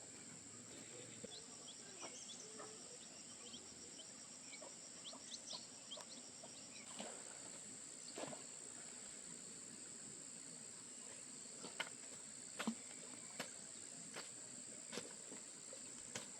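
Quiet rural outdoor ambience: a steady high-pitched insect drone, with small bird chirps over the first several seconds and scattered faint clicks and taps in the second half.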